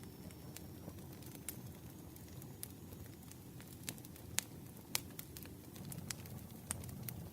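Campfire burning with a steady low rustle and irregular sharp crackles and pops, two of them louder about four and a half and five seconds in.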